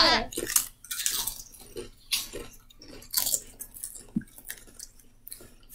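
Several people crunching and chewing potato chips, in irregular crackly bites.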